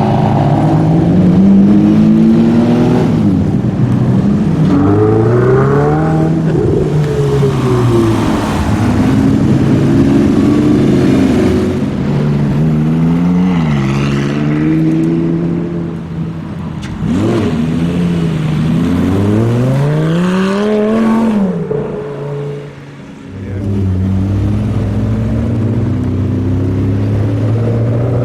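Supercar engines revving, their pitch climbing and dropping half a dozen times. Near the end the sound settles to a steadier low engine note.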